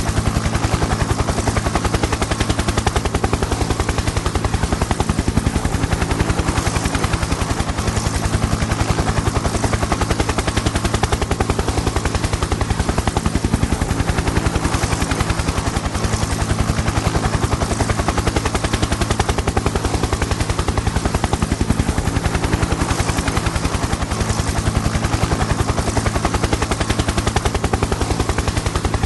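Helicopter in flight: rapid, even chopping of the rotor blades over a steady engine and turbine drone, unchanging throughout.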